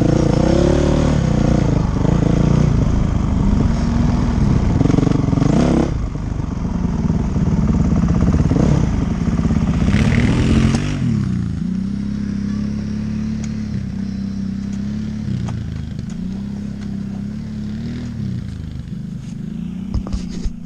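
Dirt bike engine running, its pitch rising and falling as it is revved; about eleven seconds in it drops lower and steadier, with a few brief rises in pitch.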